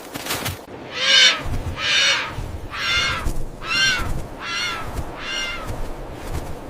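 An animal calling six times in a row, harsh pitched calls about one a second.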